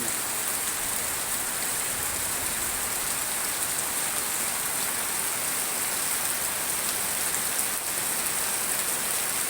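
Heavy tropical downpour: a dense, steady hiss of rain with no let-up.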